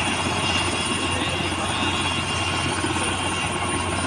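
Helicopter running nearby: rapid rotor chop with a steady high turbine whine.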